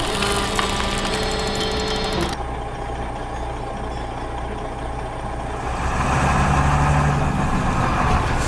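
Heavy construction vehicle's diesel engine running at idle, then growing louder about six seconds in.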